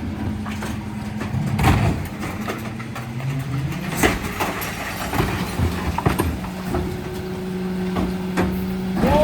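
Mercedes Econic refuse truck's engine running with a steady hum that dips and then climbs back in pitch between about two and three and a half seconds in before holding steady, with several sharp knocks and clatters along the way.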